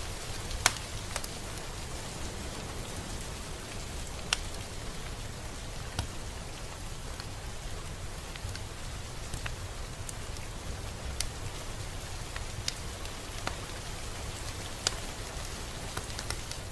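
Steady rain as an even hiss over a low rumble, with single drops ticking sharply at irregular moments, the loudest about a second in.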